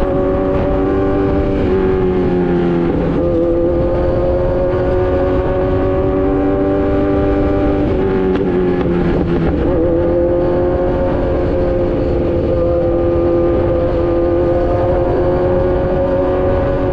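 Kawasaki Z900 inline-four running through an Austin Racing full exhaust while riding. The engine note drops about three seconds in and again around eight to nine seconds in, then slowly climbs.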